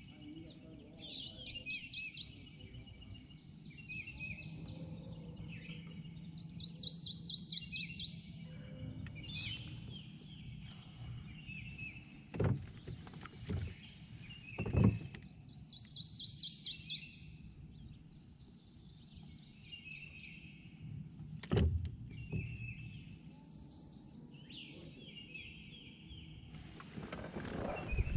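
Songbirds singing: one bird repeats a rapid, high trill three times, several seconds apart, among softer chirps from other birds. A few dull knocks break in around the middle and at the very end.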